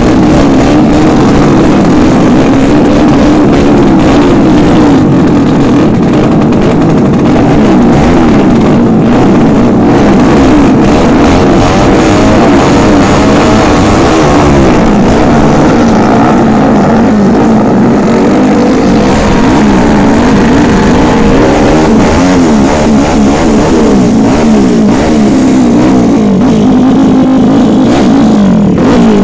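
Racing motorcycle engines running hard and revving, loud and continuous, their pitch rising and falling.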